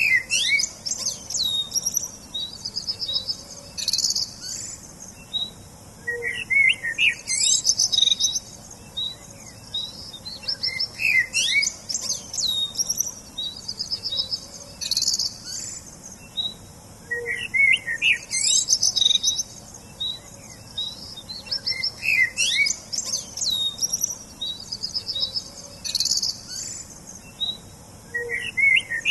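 Songbirds chirping and singing: quick high chirps, rapid trills and short whistles, with similar phrases returning every five or six seconds.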